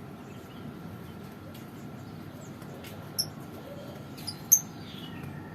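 Lovebirds giving a few short, high chirps, the sharpest two about three and four and a half seconds in, over a steady low background hum.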